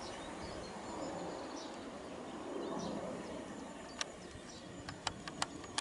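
Small birds singing in short, high chirps over a faint steady outdoor background. Several sharp clicks come from about four seconds in.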